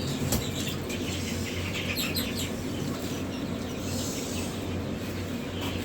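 Young chicks peeping in short high chirps, with a quick run of them about two seconds in, over a steady low hum. There is a single sharp click near the start.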